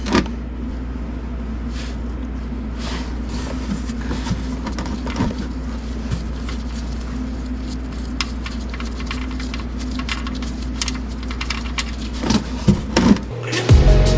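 Steady low mechanical hum with scattered short metallic clicks and knocks as a wrench works the oil drain plug loose on a Toyota Corolla. Music comes in just before the end.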